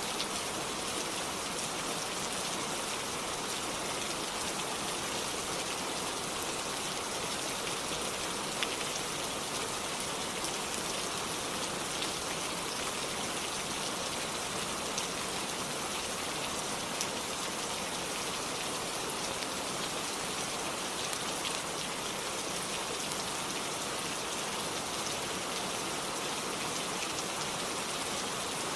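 Steady rainfall, a dense even hiss of rain on a surface, with a few sharp drop ticks scattered through it.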